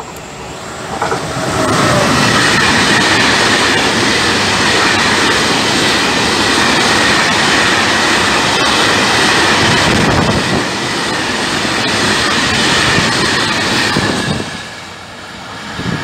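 Freight train of open wagons passing close at speed: a loud, steady rush and rattle of wheels on rails with a thin high-pitched ring running through it. It swells in about a second and a half in and fades as the last wagons pass near the end.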